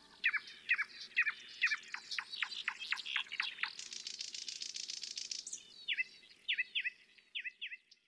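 Songbird chirping: a run of short chirps that slide down in pitch, about two a second, with a fast buzzy trill in the middle, fading toward the end.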